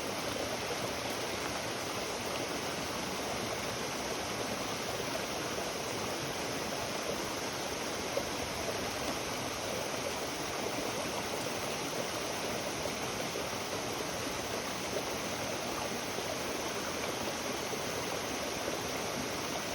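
Steady rushing of flowing stream water, even throughout, with a few faint ticks.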